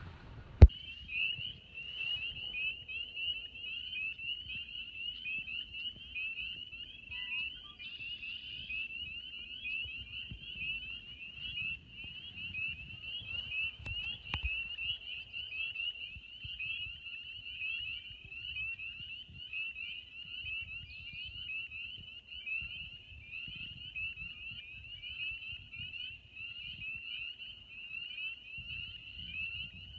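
A steady chorus of insects chirring, a high rapid pulsing trill that does not let up. A single sharp click sounds just under a second in, the loudest moment.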